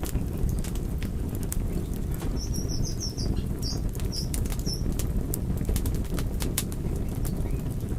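Wood fire burning: a steady low roar of flames with frequent, irregular sharp crackles and pops from the burning wood.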